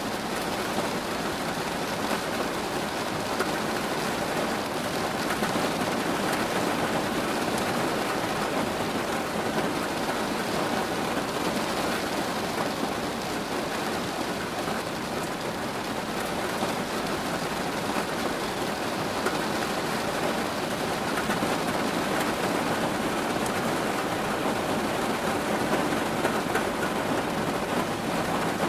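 Steady rain falling on a surface, an even hiss of many drops with no break or change.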